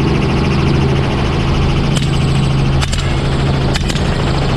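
Helicopter running steadily with a low hum, broken by four sharp rifle shots from about two seconds in, the last two close together.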